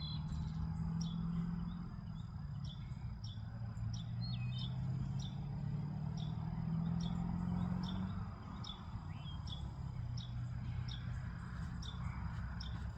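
Short bird chirps repeating about every two-thirds of a second, over a faint steady high insect drone and a louder low hum that drifts slowly in pitch.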